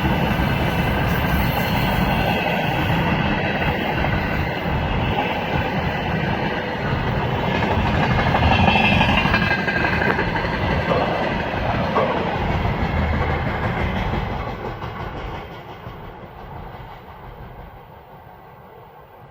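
Freight train wagons rolling past on the rails with a steady clatter of wheels. The noise fades away over the last few seconds as the end of the train goes by.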